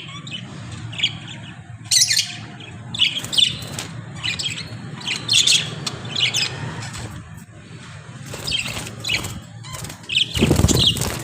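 Pet parrots giving short chirps and squawks, one every second or so. Near the end comes a louder burst of rustling noise.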